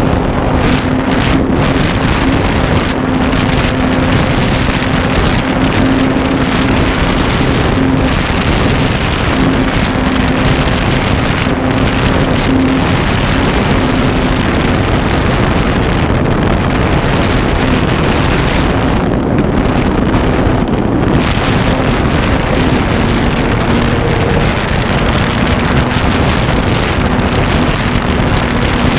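RC airplane's motor and propeller running steadily in flight, a constant hum that drops slightly in pitch about two-thirds of the way through, under heavy wind rushing over the plane-mounted camera's microphone.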